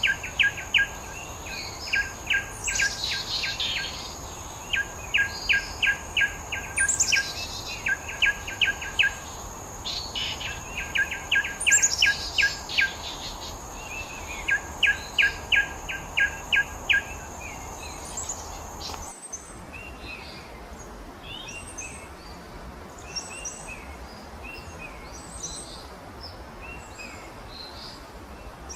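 Grey-faced tit-babbler singing: repeated runs of quick, even, sharp notes, each run lasting a second or two, over a steady high whine. About two-thirds through, the whine and the runs cut off and give way to scattered higher chirps of other birds.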